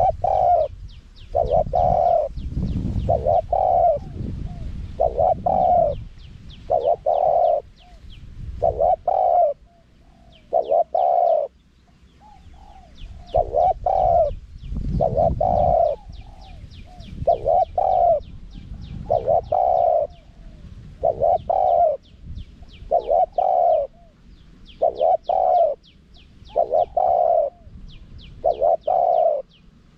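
Spotted dove cooing over and over: short low coos in a steady series, one about every second and a half, with faint high chirping behind them.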